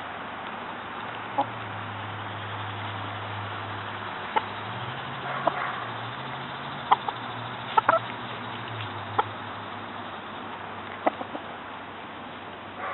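Domestic chickens clucking in short, scattered calls a few seconds apart over a steady low hum.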